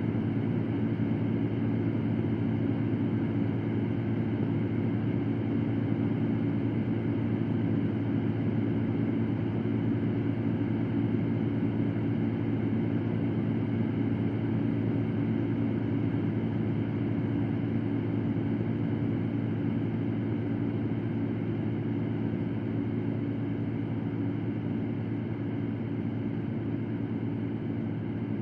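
Electric fan running steadily: a low, even whoosh of moving air with a faint motor hum.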